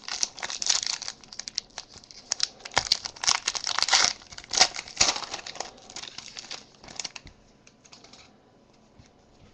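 Trading-card pack wrapper being torn open and crinkled by hand, a dense run of crackling that thins out and stops after about eight seconds.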